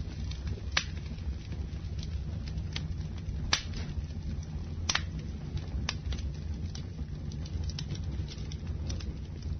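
Campfire burning: a steady low rumble of flames with irregular crackles and pops from the burning wood. The sharpest pops come about three and a half seconds in and again about five seconds in.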